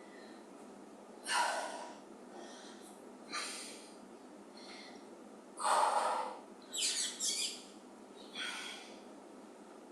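A woman breathing hard under exertion: short, forceful exhales roughly every two seconds, in rhythm with dumbbell upright row and front raise reps.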